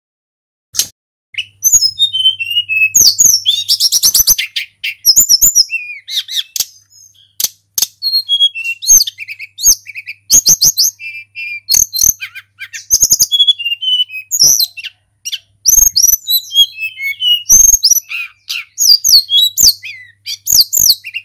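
Tledekan gunung flycatcher singing, starting about a second in: a fast, unbroken run of varied high whistles, sweeping phrases and trills, with short sharp clicks between some phrases.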